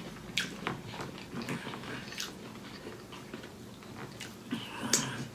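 Close chewing of a mouthful of nacho salad, with scattered sharp crunches.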